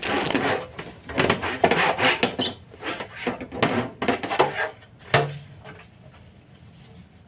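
Irregular rubbing and scraping strokes with light knocks as fridge parts are cleaned, lasting about five seconds before dying away.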